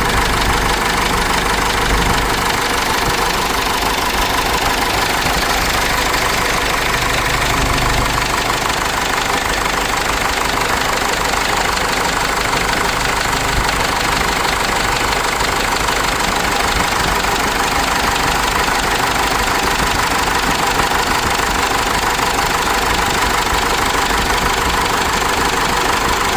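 Cummins 4BT four-cylinder diesel in a Case 586E forklift, running steadily.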